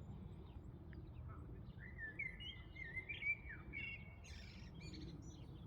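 Songbird singing a warbling phrase of gliding notes, with short chirps from birds near the end, over a steady low background hum.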